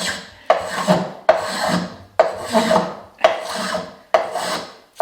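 Small antique metal hand plane with a curved sole, a metal version of a spokeshave, taking shavings off wood in repeated strokes about once a second, each starting sharply and fading out.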